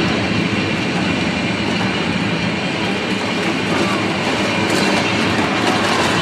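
Loud, steady engine noise from a large show vehicle running in the arena, with no clear revs or impacts.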